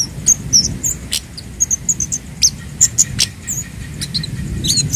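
Kemade (scarlet-headed flowerpecker) calling: a rapid, irregular string of short, sharp, high-pitched chips and quick twittering notes. Underneath runs a steady low rumble.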